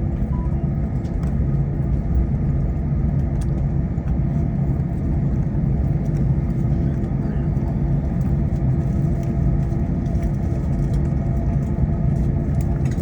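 Steady low rumble and constant hum inside an Airbus A321 cabin after landing, from the jet engines at idle and the cabin air system.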